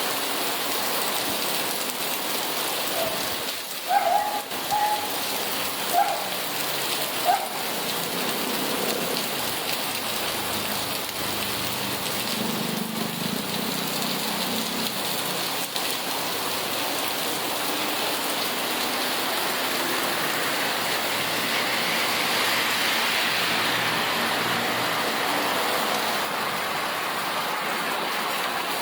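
Steady heavy rain falling and splashing on surfaces, a dense even hiss that swells slightly about two-thirds of the way through. A few short chirp-like sounds cut through it between about three and seven seconds in.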